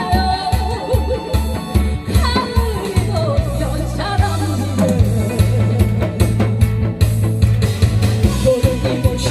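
A woman singing a Korean trot-style song live, with amplified instrumental accompaniment and a steady beat.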